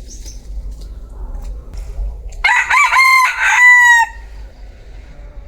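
A bantam rooster crows once, about two and a half seconds in: a loud call of a second and a half in several linked parts, ending on a long held note that drops slightly as it fades.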